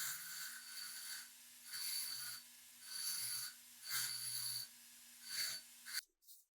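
Slow, even rubbing strokes on a workpiece, about one a second, each about half a second long; the sound cuts off abruptly near the end.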